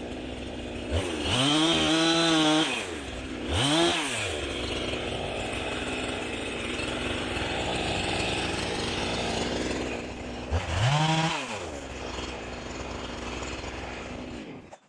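Jonsered 2165 two-stroke chainsaw running, its engine revved up to full throttle and back down several times, with steady running in between. The sound cuts off suddenly near the end.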